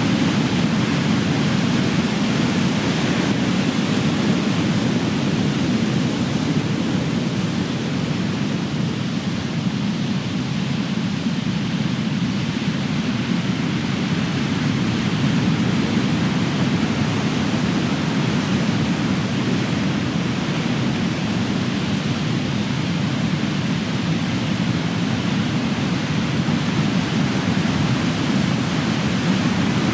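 Ocean surf: big waves breaking and washing ashore as a continuous deep rumble and hiss that swells and eases slowly, a little softer about ten seconds in.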